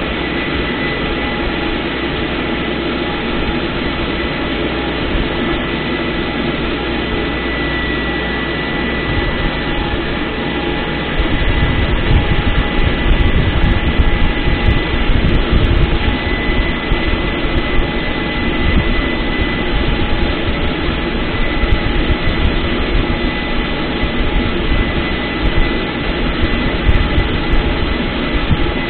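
MTZ-892 tractor's diesel engine running steadily under load, with a thin steady high whine over it. About eleven seconds in, a louder, rougher low rumble joins and carries on.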